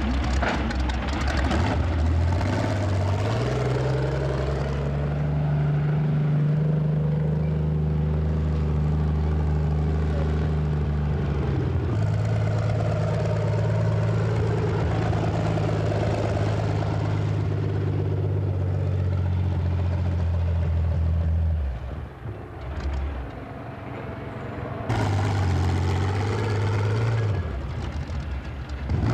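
Tractor engine running hard under load in a tractor pull. The revs climb over the first few seconds and hold high, then drop to a lower steady note about twelve seconds in. The engine note falls away a little after twenty seconds, and an engine picks up again about twenty-five seconds in.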